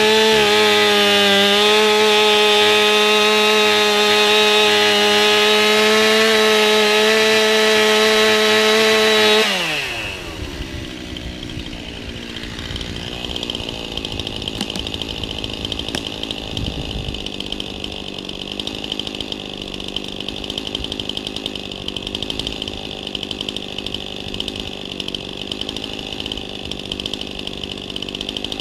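Chainsaw engine running steadily at high revs, then the throttle is let off about nine seconds in and the pitch falls quickly as it drops to a lower, rougher running speed.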